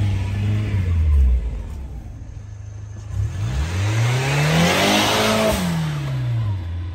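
1995 Mitsubishi Pajero Mini's small turbocharged engine revving as the little 4WD drives off. It revs up and back down near the start, then revs up again, passes loudest about five seconds in, and falls in pitch as it pulls away.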